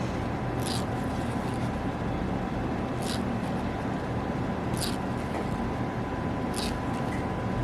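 Cotton threading thread pulling eyebrow hairs: four short, sharp zips about two seconds apart, over a steady background hum.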